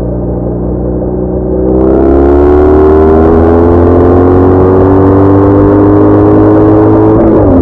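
BMW R1200R's boxer-twin engine pulling under acceleration: about two seconds in it gets louder and its pitch climbs steadily, then drops sharply near the end at a gear change.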